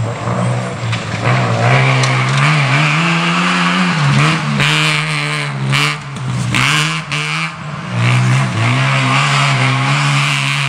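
First-generation Mazda RX-7 rally car's rotary engine revving hard, its pitch rising and falling over and over as the throttle is worked.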